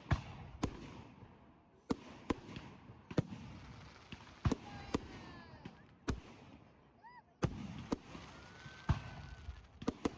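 Bonfire Night fireworks going off: about a dozen sharp bangs at irregular intervals over a steady crackle, with a few whistling glides between them.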